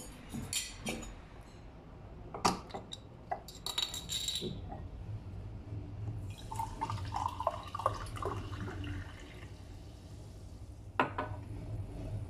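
Kitchen handling sounds: glassware clinking a few times, then liquid poured into a glass for about three seconds, and another sharp clink near the end.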